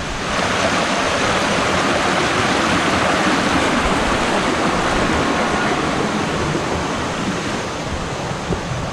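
Waterfall's water rushing and splashing in a steady loud roar that swells just after the start.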